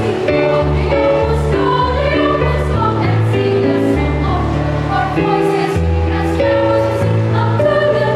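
Children's choir singing a Christmas carol over instrumental accompaniment with held bass notes.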